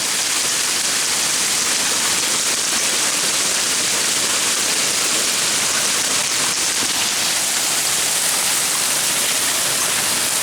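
Hail and heavy rain pelting down during a thunderstorm, a steady, dense hiss with no letup.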